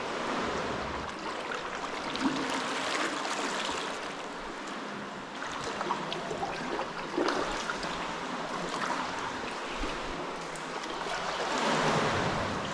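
Sea water sloshing and splashing around a sea kayak on the move, swelling and easing in waves, loudest near the end, with a few small knocks.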